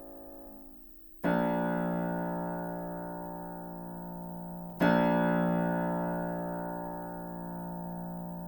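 Aldrich spinet piano: one key struck twice, about a second in and again near five seconds. Each note rings out and slowly dies away, the tail of an earlier note fading at the start. Notes are being played one at a time to check the piano's tuning.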